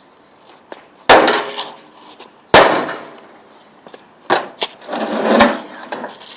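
A microwave oven being smashed: heavy blows on its casing, each followed by a burst of clattering and rattling. There are two separate strikes in the first half and then a quick run of three or four more.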